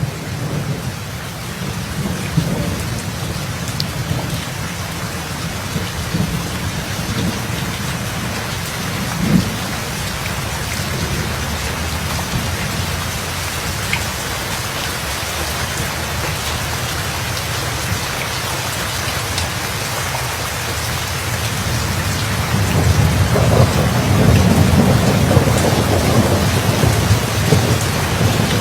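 Steady rain falling hard, with thunder rumbling low underneath; a long roll of thunder swells up about three-quarters of the way through.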